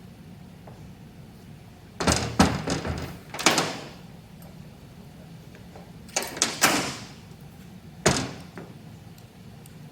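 Heavy metal parts knocking and clunking in four short clusters of several hits each, with a brief ring after some hits, as lathe compound parts are handled and knocked during disassembly.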